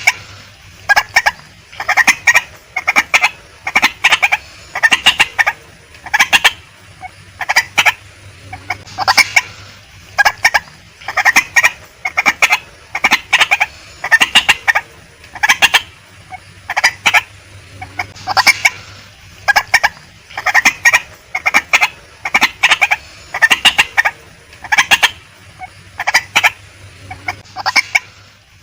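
Female white-breasted waterhen calling: loud, clucking notes in quick clusters, repeated about once a second without a break.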